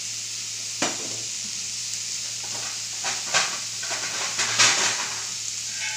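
Chorizo, potato and onion sizzling in a metal pan: a steady frying hiss, with a few short pops or knocks scattered through it.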